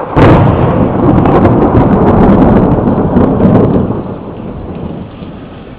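A thunderclap: a sharp crack just after the start, then a loud rolling rumble with crackling for about four seconds, fading away toward the end, over light rain.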